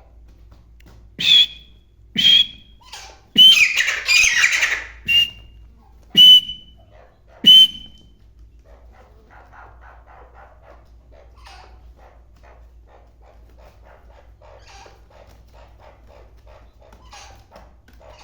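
Black francolin calling: a string of about six loud, harsh, grating notes in the first eight seconds, then only faint chirping.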